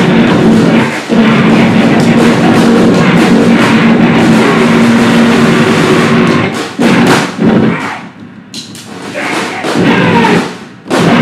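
Live noise-grind improvisation: a loud, distorted wall of noise with drums and a held droning pitch. It cuts off abruptly about six and a half seconds in, gives way to short stop-start blasts and a quieter patch, then slams back in near the end.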